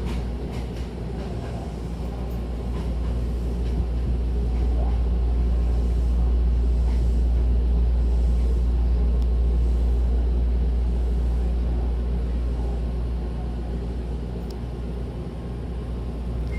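Hankyu 1000-series electric train running on the rails: a steady low rumble that swells and then eases off toward the end, with a few light clicks in the first few seconds.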